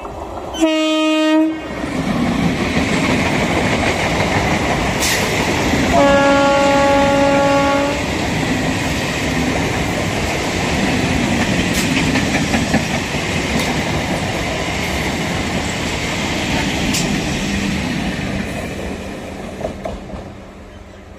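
Electric multiple-unit local train passing at speed, sounding its horn twice: a short blast about a second in and a longer blast of about two seconds at around six seconds. Under the horn runs the steady noise of wheels on rails with a few sharp clacks, fading near the end as the train moves away.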